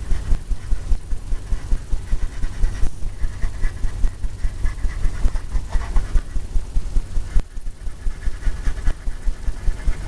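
Fan brush loaded with white oil paint scrubbing onto a stretched canvas in quick, rhythmic circular strokes, each stroke thumping the canvas, several times a second.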